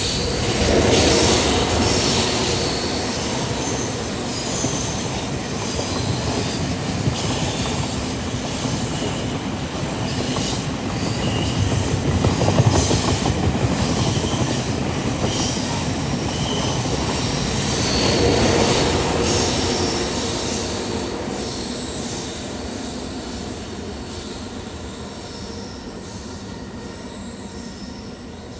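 Taiwan Railway E500 electric locomotive and its train slowing down, wheels squealing on the rails over a steady rumble. The sound swells twice in the middle, then fades away toward the end.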